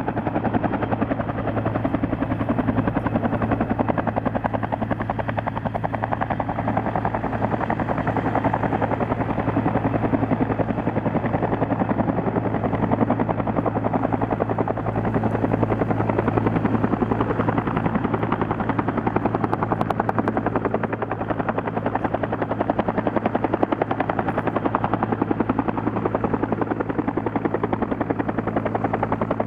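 Bell UH-1J helicopter hovering: its single turboshaft engine and two-bladed main rotor run steadily, the rotor beating in a rapid even pulse over a constant low hum.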